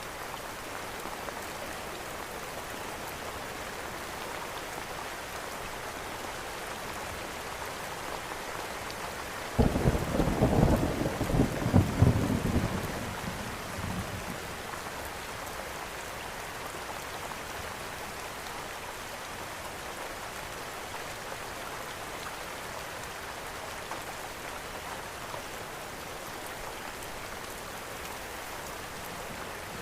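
Steady rain falling, with a roll of thunder about ten seconds in: a sudden low rumble that swells for a few seconds and then dies away.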